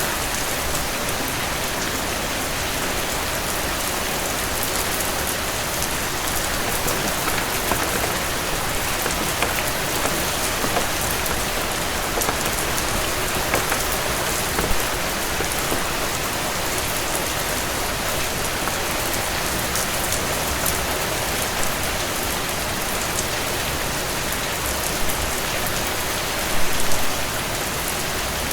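Heavy rain falling steadily on a cabin porch, with scattered sharp crackles from a fireplace and a brief cluster of louder pops near the end.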